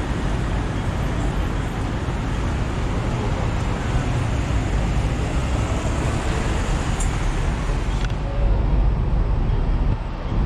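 Hong Kong double-decker electric tram running, heard from on board: a steady rumble of the car on its rails mixed with street traffic, with a single faint click about eight seconds in.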